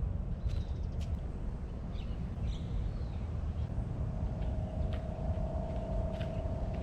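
Outdoor ambience: a steady low rumble with a few faint chirps and clicks, and a steady hum that comes in about four seconds in.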